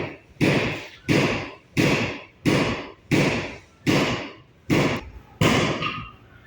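A steady series of loud, evenly timed strikes, about one every 0.7 seconds, each ringing briefly before the next. They stop about six seconds in.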